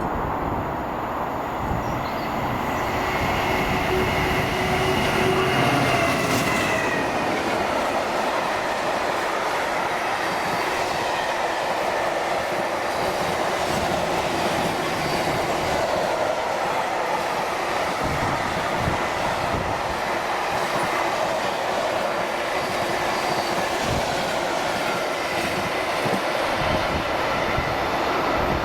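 Train running past on the line: a steady rumble and clatter of wheels on rail lasting the whole time, with faint high squealing tones in the first several seconds.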